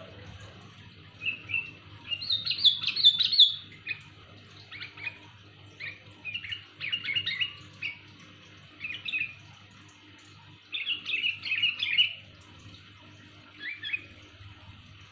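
Sooty-headed bulbul (kutilang) calling loudly: bursts of quick, clear chirping phrases every few seconds, the loudest about two to three seconds in.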